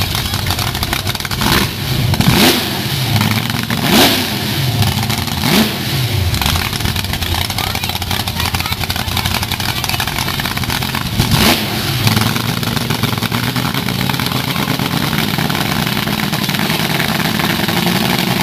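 Car engines running with a steady rumble, blipped several times in quick revs that rise and fall: four in the first six seconds and one more near the middle.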